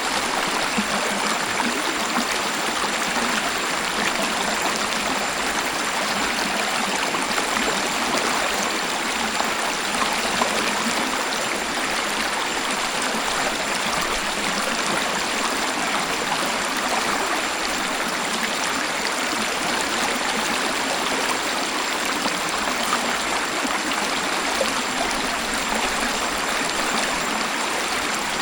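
Waterfall: a steady, even rush of flowing water, mostly hiss and splash with little deep rumble.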